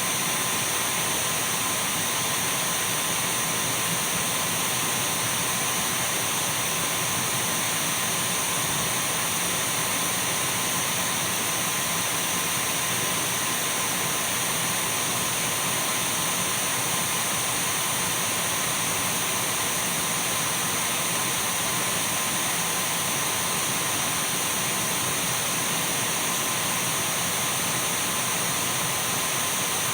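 Dyson V12 cordless stick vacuum cleaner running steadily: an even rush of air with a thin high whine.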